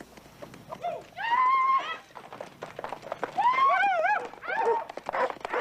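Horses whinnying twice, long wavering calls, with hooves clip-clopping throughout.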